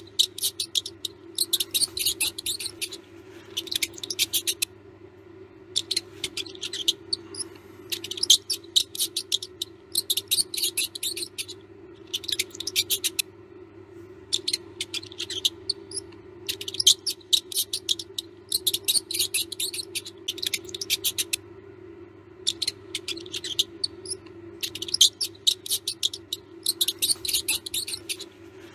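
Mouse squeaking in quick runs of short, high chirps, a run every second or two, over a steady low hum.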